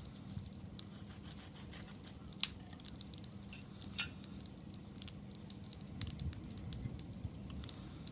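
Wood campfire burning, crackling with irregular sharp pops over a low steady rumble of flame; the loudest pop comes about two and a half seconds in.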